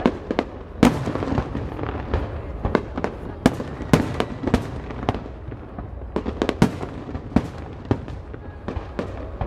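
Aerial fireworks display: a rapid, irregular string of sharp shell bursts and bangs, about two a second, over a steady low rumble.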